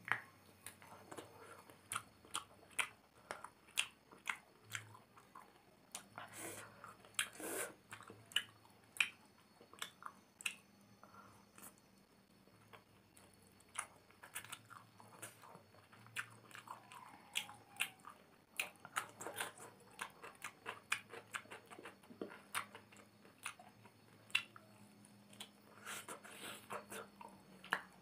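Close-up chewing of instant noodles eaten by hand: wet mouth clicks and smacks several times a second, with some crunching bites.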